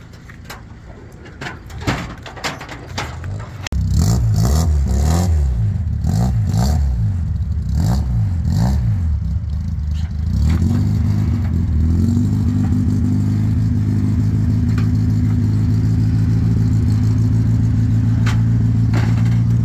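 A Zastava Yugo race car's engine starts about four seconds in, is revved in repeated blips, then settles into a steady fast idle. A few clicks and knocks come before it starts.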